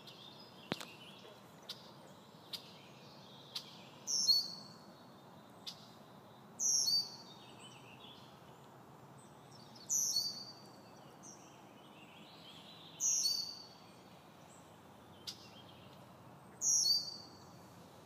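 A bird singing the same short high phrase five times, about once every three seconds, over a steady faint background hiss. A few soft ticks fall between the phrases.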